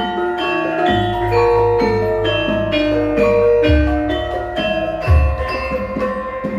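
Javanese gamelan ensemble playing: struck bronze metallophones ring out a stepping melody of sustained notes, over deep low strokes about a second in, near four seconds and again around five seconds.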